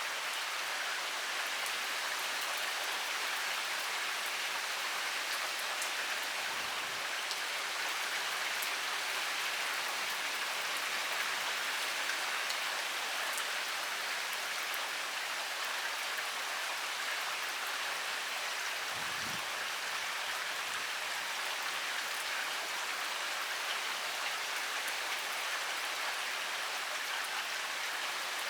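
Heavy rain pouring steadily, a dense even hiss of drops striking a surface, with scattered sharper drop ticks. Two faint low thumps sound in the rain, one about six seconds in and one about nineteen seconds in.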